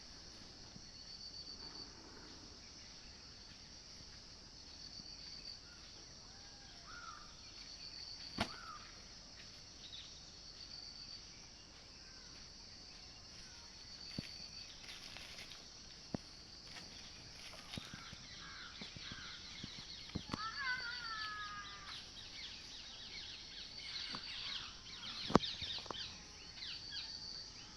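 Rural outdoor ambience: a steady high hiss with a short high chirp repeating about every two seconds. Scattered bird calls and a few sharp clicks come over it.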